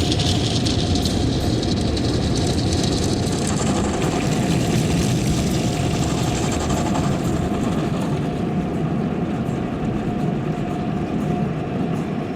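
Automatic car wash machinery running, heard from inside the car: a steady rumble with a hiss of spraying water that fades from about eight seconds in, over a faint steady hum.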